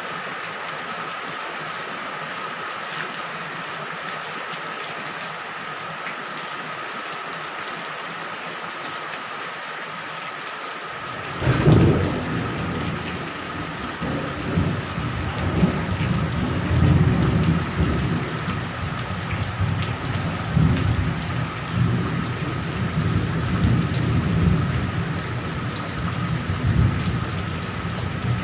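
Steady rain falling. About eleven seconds in, thunder breaks with a sudden low crack and keeps rumbling on in rolling swells under the rain.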